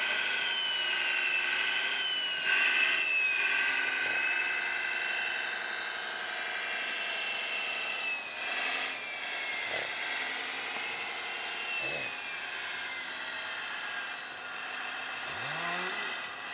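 High-pitched whine of a radio-controlled scale model's small electric motors and gearing, with the pitch sliding slowly down and back up a few times as it is driven, and a few short clicks.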